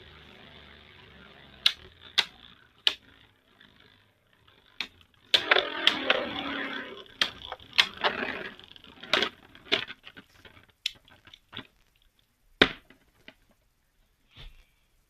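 Plastic clicks and clatter of Beyblade Burst tops and parts being handled, with a denser stretch of rattling scrape in the middle and single sharp clicks spread through the rest.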